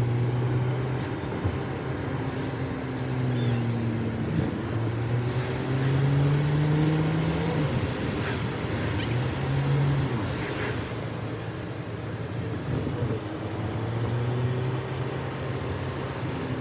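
A vehicle engine running, its pitch slowly rising and falling as it changes speed, over steady rushing noise.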